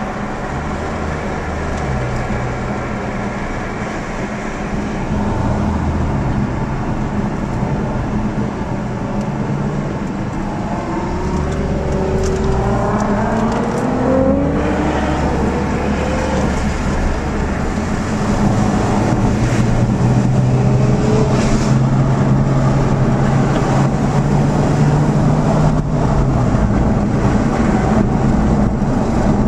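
Car engines running, with one engine revving up in a rising sweep about halfway through, then a louder steady engine drone in the second half.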